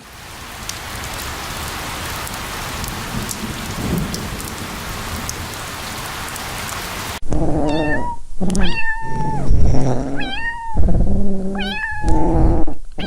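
A steady, rain-like hiss, then, about seven seconds in, an abrupt change to a cat meowing over and over, about six loud meows with bending pitch.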